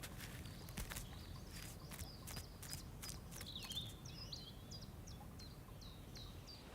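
Faint songbird calls in woodland: a string of short, high chirping notes, with a few sharp ticks in the first three seconds.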